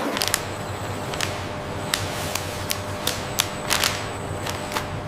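Packaging-line machinery running with a steady hum, over which come irregular sharp clicks and clacks, about two a second.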